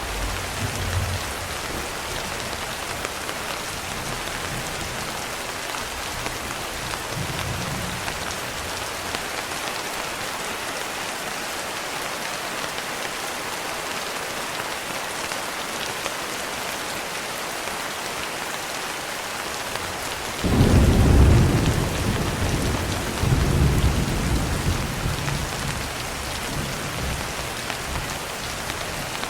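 Steady rain pattering on a window pane. A few seconds past the middle, thunder breaks out suddenly in a deep rumble, swells again a couple of seconds later and rolls away.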